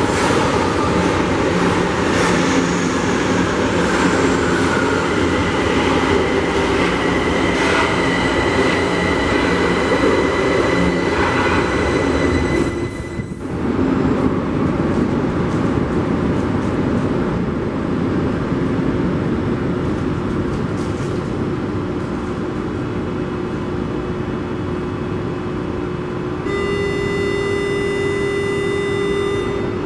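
São Paulo Metro train in the station: loud rumble and wheel noise, with a motor whine falling in pitch over the first few seconds as the train slows. About thirteen seconds in, the sound drops away briefly, then the steady running noise carries on. Near the end a steady multi-tone electronic signal sounds for about three seconds.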